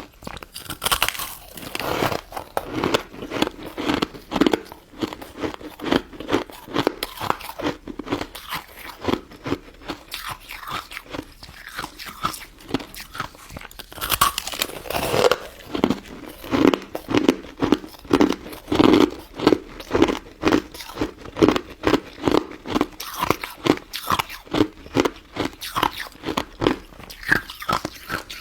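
Close-miked chewing and crunching of a crisp, icy frozen dessert (crystal snow ice), a rapid, even run of crunches about two a second that grows louder about halfway through.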